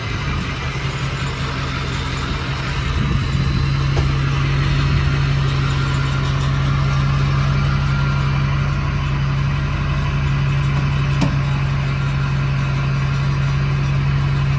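Vehicle engine idling steadily, growing a little louder and more even about three seconds in.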